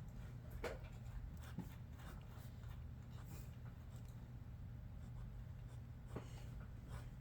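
Sketching strokes scratching on paper, short and irregular, over a steady low hum.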